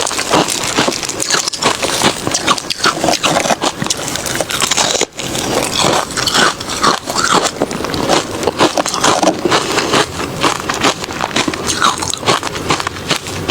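Close-miked biting and crunching of refrozen crushed ice, a dense run of sharp crunches with a brief pause about five seconds in.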